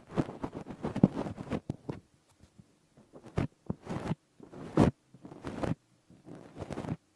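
ASMR ear-covering and rustling on the microphone: muffled rubbing and rustling, dense for about the first two seconds, then a handful of short separate swishes and soft thumps.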